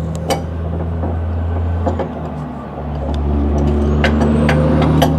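A steady low machine hum that dips for about a second, two seconds in, then comes back stronger. Scattered sharp clicks and taps from work on the steering linkage sit on top of it, more of them near the end.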